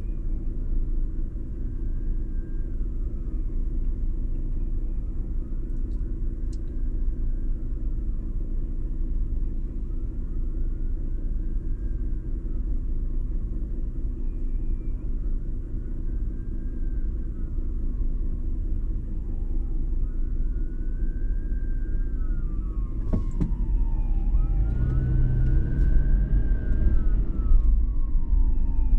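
Steady low road and engine rumble of a 2019 Toyota 4Runner TRD Pro driving, with an emergency vehicle's wailing siren rising and falling about every three to four seconds. The siren is faint at first and grows louder over the last several seconds as it comes closer.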